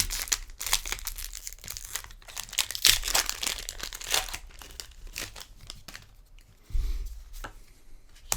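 Foil trading-card booster pack wrapper being torn open and crinkled, a dense crackle in the first half that thins out toward the end.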